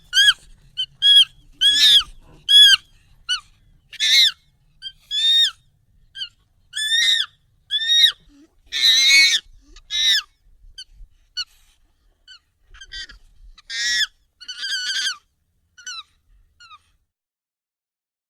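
Monkey calls sped up and raised in pitch: a string of short, high, arching cries, about one or two a second, with a louder, longer one about nine seconds in.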